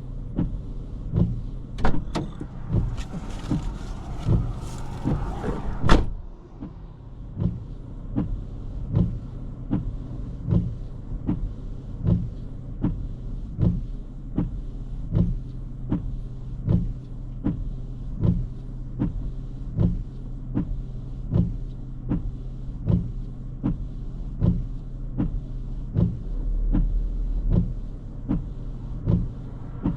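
Inside a car: a steady low engine and road hum with a regular click-thump about every 0.7 s. For the first few seconds a rushing hiss joins in, and it stops with a sharp knock about six seconds in.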